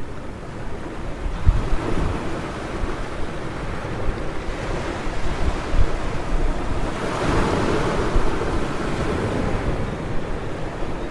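Ocean surf on a beach: a continuous wash of waves, with a wave breaking and surging louder about seven seconds in. Wind buffets the microphone with low rumbles.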